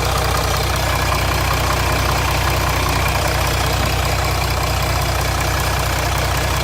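Jeep Grand Cherokee 3.0 CRD V6 turbodiesel (Mercedes OM642) idling steadily with a rattle. The owner suspects a loose timing chain or oil-pump chain, and the oil pressure light comes on at idle.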